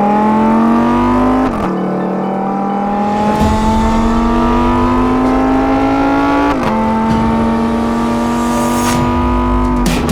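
Lamborghini Huracán EVO's V10 engine accelerating through the gears: the pitch climbs steadily, drops sharply with an upshift about a second and a half in and another about six and a half seconds in, then climbs again.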